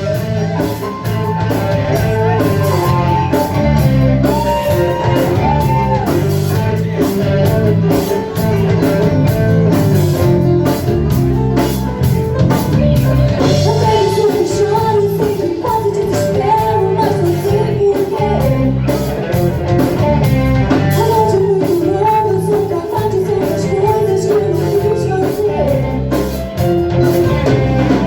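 A rock band playing live, with a steady drum beat, bass and a melody line over it.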